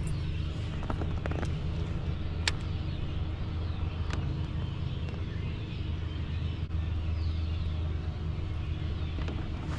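A steady low motor drone, with a couple of sharp clicks about two and a half and four seconds in.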